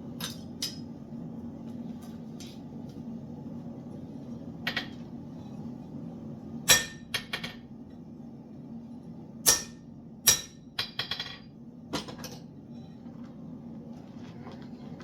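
Irregular metal clanks and hammer strikes in a blacksmith's shop, about a dozen sharp ringing hits spaced unevenly, the loudest ones about halfway through. A steady low hum runs underneath.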